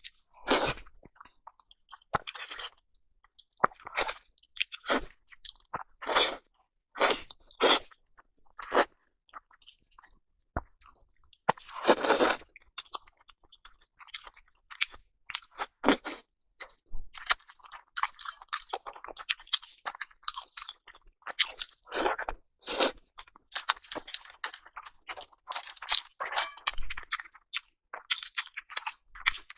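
Close-up crunching and chewing of food, many separate crisp bites and chews at an irregular pace with short pauses between.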